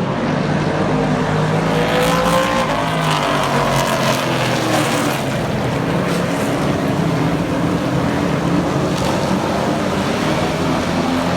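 Several super trucks' race engines running hard on the track, engine pitches rising and falling as they pass, with the loudest passes a few seconds in.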